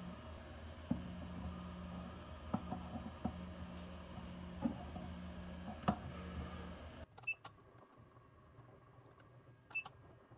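A faint, steady low electrical hum with scattered light taps and clicks. The hum cuts off suddenly about seven seconds in, and two short clicks with a brief high tone follow.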